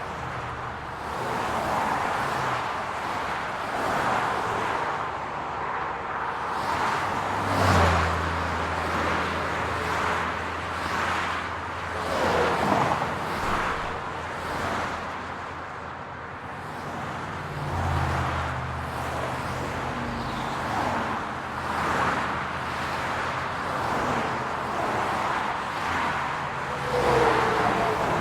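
City road traffic: cars going by one after another with tyre and engine noise. A low engine hum comes in about eight seconds in and again a little past the middle.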